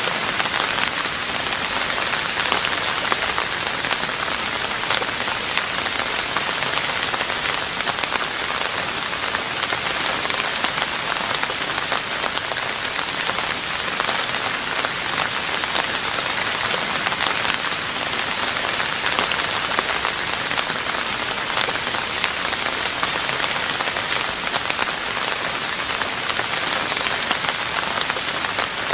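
Steady rain falling on a roof: an even hiss of many small drop hits, unbroken and unchanging in level.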